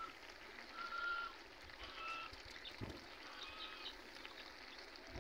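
A few short, faint, high chirps about a second apart, like a small bird or poultry calling, over a low steady hiss.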